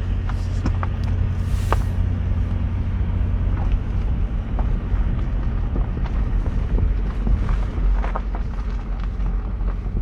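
Car driving on a dirt road, heard from inside the cabin: a steady low rumble with scattered small knocks and rattles as it bounces over the rough surface.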